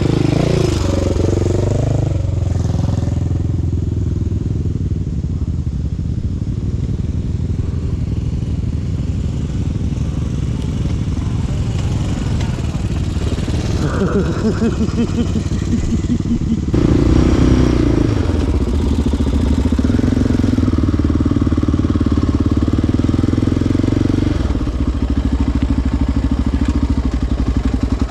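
Single-cylinder four-stroke sport ATV engine running under way. Its pitch dips and climbs in the first few seconds, then holds fairly steady, and it gets louder about 17 seconds in.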